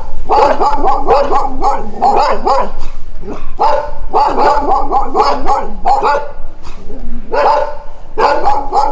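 Dog barking over and over in quick runs of short barks, with brief pauses between the runs.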